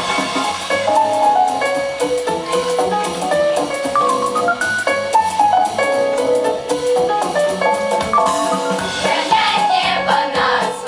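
Children's choir singing to an instrumental backing track with a steady drum beat.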